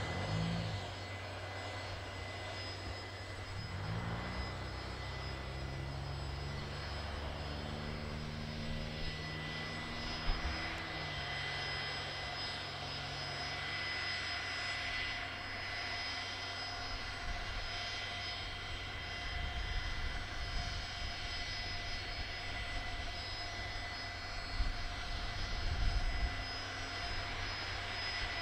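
Jet aircraft landing and passing along the runway: a steady engine whine with a low drone whose pitch falls as it goes by.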